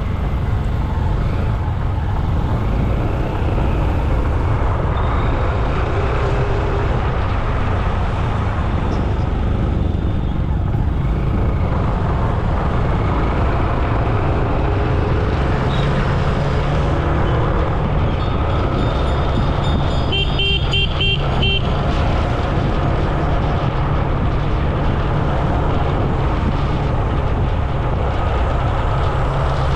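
Steady road traffic noise with a heavy low rumble. About twenty seconds in, a vehicle horn beeps five times in quick succession.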